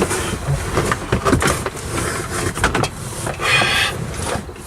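Irregular knocks, taps and rustling from a foil-backed sound deadener sheet being handled and pressed against a car's roof panel, with a brief scrape about three and a half seconds in.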